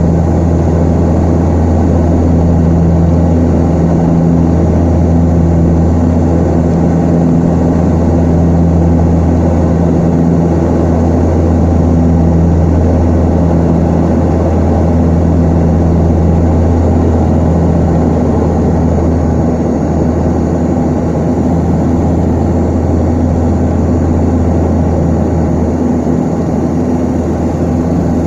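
Antonov An-24's turboprop engines and propellers running steadily with a loud, even low hum. A higher pitched tone above the hum fades in and out, and the sound eases slightly about two-thirds of the way through.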